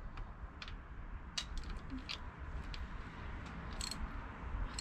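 A few faint, irregular clicks, roughly a second apart, from a wrench and socket working on spark plugs as they are tightened into the engine's cylinder head.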